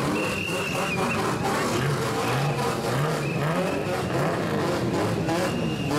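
Straight-piped engine of a lowered old Nissan Skyline revving over and over, the pitch rising and falling in quick throttle blips, with short shrill whistle blasts over it.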